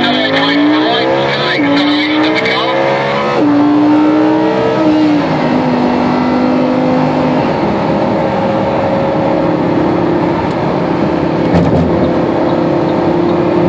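Lamborghini Huracán's V10 engine under full-throttle acceleration, heard from inside the cabin. It rises in pitch through the gears, with three quick upshifts of the dual-clutch gearbox in the first five seconds, each a sudden drop in pitch. It then settles to a steady drone as the car cruises at high speed in top gear.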